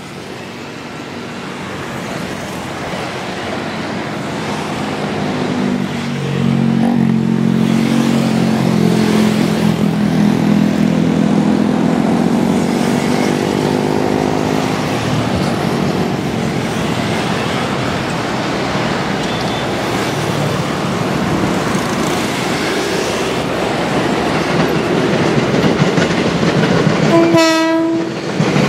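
Former JR 205-series electric commuter train approaching and passing on the tracks, its running noise growing louder over the first several seconds into a steady rumble of wheels on rails. A pitched drone runs through the middle for several seconds, and one short horn toot sounds near the end.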